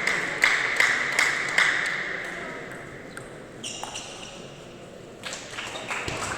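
Table tennis ball clicking in a hall: a run of sharp ticks about every half second over fading clapping in the first two seconds, a quieter stretch, then ball bounces again near the end.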